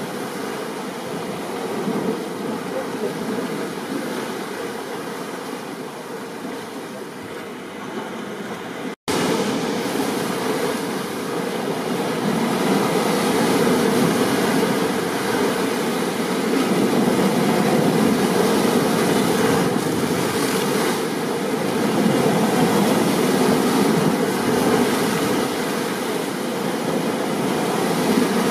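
Steady storm ambience of rain and ocean surf, an even rushing noise. It cuts out for an instant about nine seconds in and comes back a little louder.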